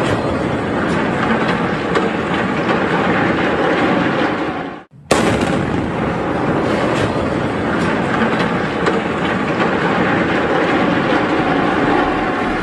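Loud, continuous crashing and rumbling of building demolition, with rubble and debris falling and breaking. It cuts off abruptly about five seconds in and starts again just as loud.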